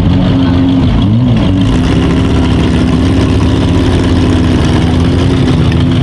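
Demolition-derby small-car engines running loud and steady at high revs, the main engine's pitch dipping and coming back up about a second in.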